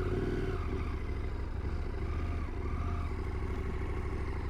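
KTM 890 Adventure R's parallel-twin engine running as the bike rides along, its pitch rising and falling gently with the throttle.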